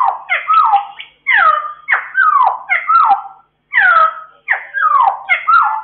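A cucak timur singing a fast string of loud, whistled notes that slide downward, about two to a second, in phrases broken by short pauses. This is its continuous 'ngeropel' song.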